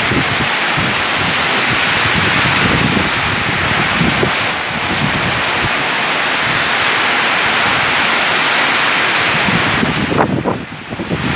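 Heavy rain pouring down in a windstorm, a loud steady hiss of rain with gusts of wind rumbling on the microphone. About ten seconds in the rain noise dips briefly while the wind gusts on the microphone.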